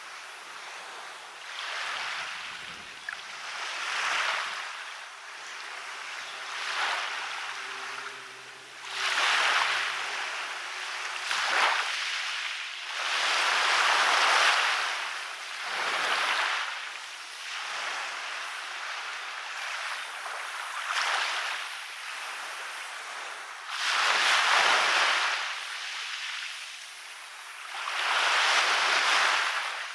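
Waves breaking and washing up on a beach: a hiss of surf that swells and fades every few seconds, with the biggest surges about nine, fourteen, twenty-four and twenty-eight seconds in.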